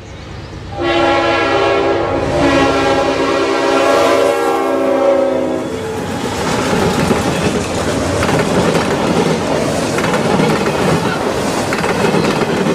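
A locomotive air horn sounds one long multi-note chord for about five seconds, then the train rolls past with a steady rumble and wheels clicking over the rail joints.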